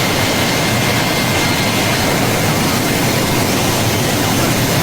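Loud, steady rushing noise of a jet aircraft engine with a faint steady high whine, cutting in and out abruptly.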